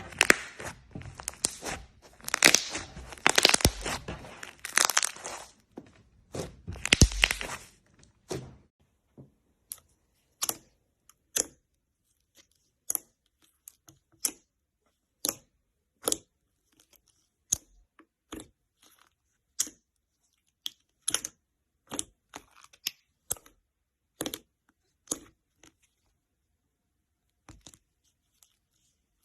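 Slime being worked by hand: for about eight seconds a dense run of crackling and popping, then single sharp pops or clicks about once a second with silence between them.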